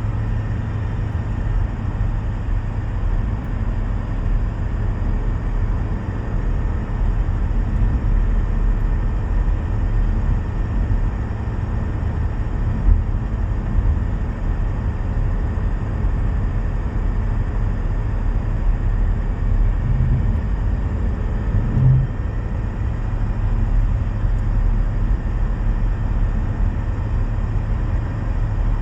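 Car driving steadily at road speed: a continuous low rumble with faint steady tones over it, the noise fault put down to its M32 six-speed manual gearbox.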